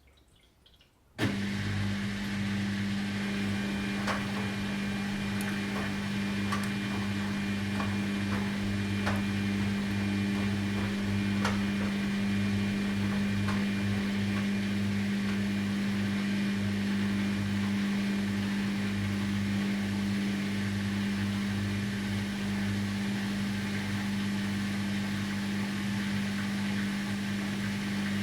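Washing machine switching on abruptly about a second in and running with a steady electric hum, with a few faint clicks over it.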